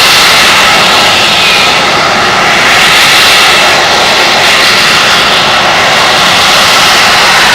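Harrier jump jet hovering: the very loud, steady jet noise of its Rolls-Royce Pegasus vectored-thrust turbofan, swelling slightly in loudness now and then.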